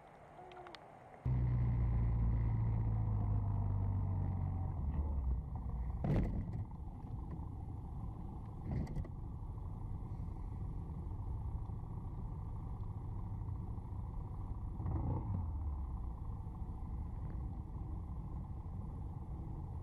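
A vehicle driving: steady low engine and road rumble that starts suddenly about a second in, with a few brief louder swells.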